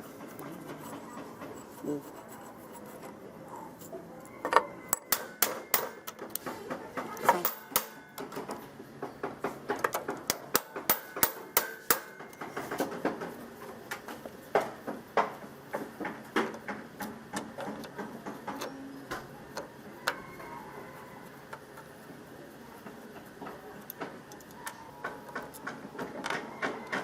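Irregular clicks, taps and clinks of hand tools and metal parts being handled while working on an old portable electric hand planer. Dense for several seconds starting about four seconds in, then sparser, picking up again near the end.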